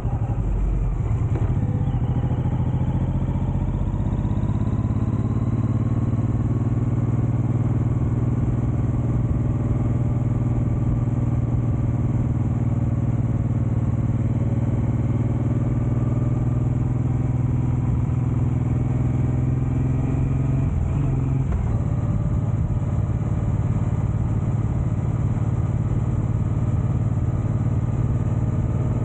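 Suzuki Boulevard M109R's big V-twin engine running steadily under way, its note climbing slowly, with a brief break and shift in pitch about two-thirds of the way through.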